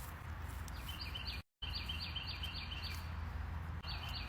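A small bird chirping in quick runs of short, high notes alternating between two pitches, over a steady low outdoor rumble. The sound cuts out completely for a moment about a second and a half in.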